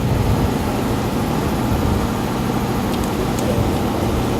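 Steady low mechanical hum, with two faint light ticks about three seconds in.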